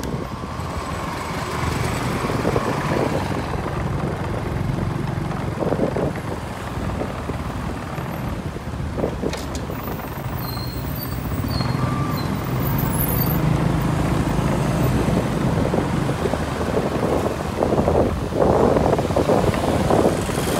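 Ferrari F8 Spider's twin-turbo V8 running at low speed as the car rolls slowly along, a steady low rumble with street noise. The sound grows louder near the end.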